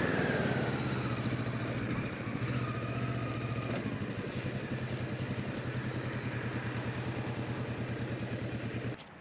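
Motorcycle engine idling with a steady, even pulse, which stops suddenly near the end.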